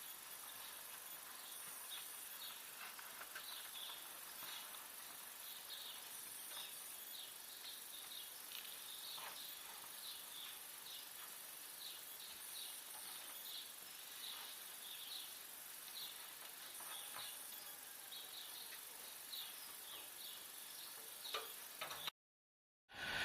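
Faint outdoor ambience of scattered high, short chirping from small wildlife such as birds and insects, over a soft steady hiss. It cuts off to complete silence about a second before the end.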